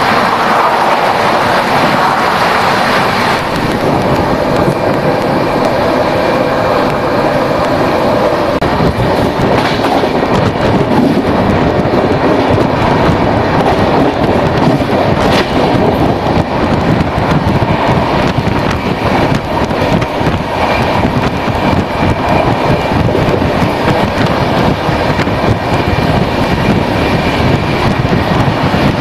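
Rajdhani Express passenger train running along the track: a steady, loud rumble of wheels on rails with some clatter.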